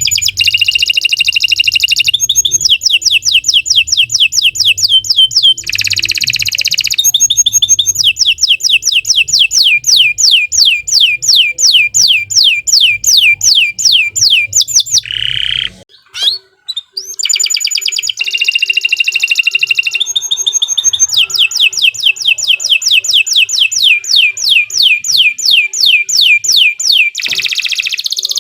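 Domestic canary singing a long, loud song of fast repeated downward-sweeping whistled notes, about four a second, switching between trill phrases every few seconds, with a short break about halfway through.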